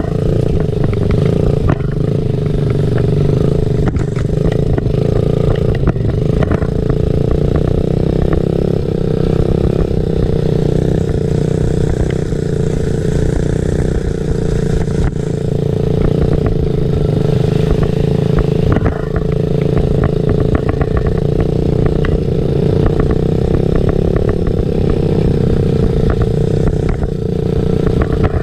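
Small off-road motorcycle engine running at a fairly steady pitch while being ridden, with frequent clattering knocks throughout.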